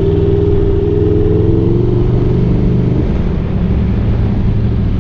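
Aprilia RSV4's V4 engine running through an SC Project aftermarket exhaust, a loud deep rumble whose pitch eases down slightly over the first few seconds and then holds steady.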